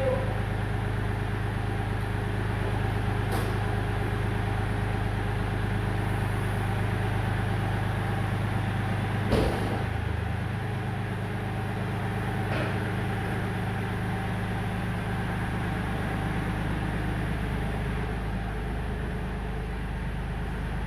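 Kioti compact tractor's diesel engine running steadily during backhoe removal, with a sharp metallic clunk about nine seconds in and two fainter knocks, one before it and one after.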